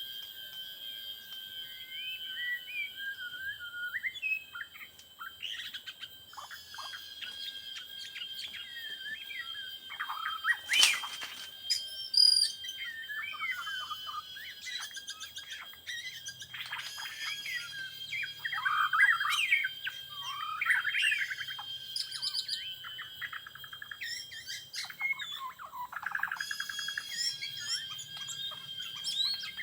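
White-rumped shamas singing: a busy stream of varied whistled phrases and chirps, with a steady high-pitched tone running underneath.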